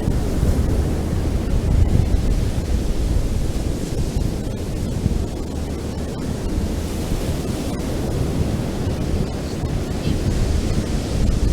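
Ocean surf washing onto a beach, a continuous rush of breaking waves that swells slightly about two seconds in and eases off midway, with wind rumbling on the microphone.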